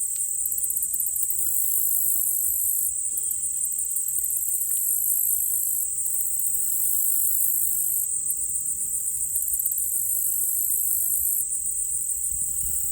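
Chorus of insects such as crickets: a steady high trill runs under a second, higher pulsing buzz that starts and stops in phrases of a few seconds.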